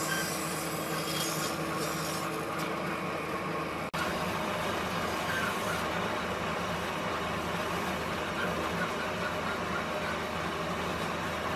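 A machine running steadily, a continuous mechanical noise with a faint hum, broken by a brief cut about four seconds in.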